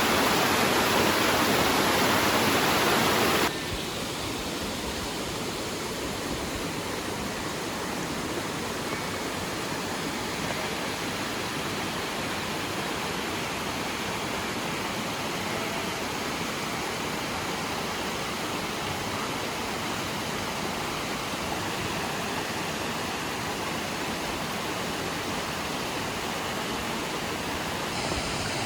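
Steady rush of mountain water, louder for the first three and a half seconds, then dropping suddenly to a softer, even rush.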